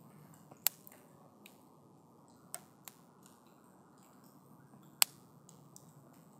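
Wood campfire burning with a low steady rush of flame and scattered crackles, with two sharp pops, one about half a second in and a louder one about five seconds in.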